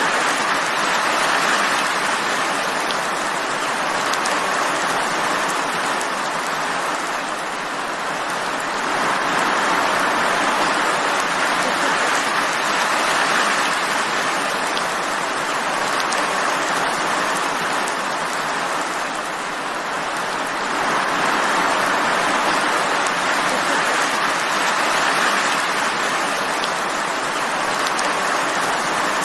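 Steady rain falling, a dense even hiss with faint scattered drops, swelling and easing gently a few times.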